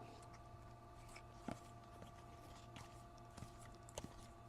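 Near silence: a faint steady hum with a few soft ticks, one about a second and a half in and a couple near the end.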